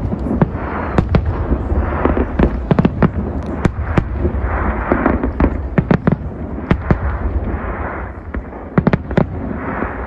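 Fireworks display: a rapid, irregular string of sharp bangs and pops over a continuous deep rumble of shell bursts, with repeated patches of hiss lasting about a second each.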